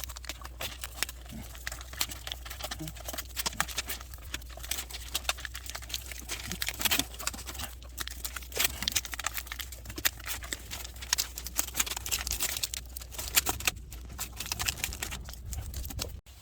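Dense crinkling and quick small clicks of aluminum tape being handled and pressed on, over a steady low hum. The sound cuts off suddenly near the end.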